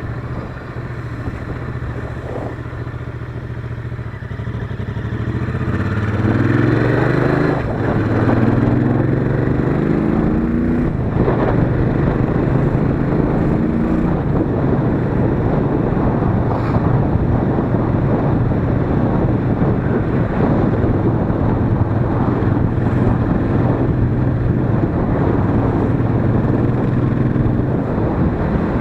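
Royal Enfield Interceptor 650's parallel-twin engine running under way. It holds steady at first, then the pitch rises twice about six and eight seconds in as the bike accelerates through the gears, and it settles into a steady cruise.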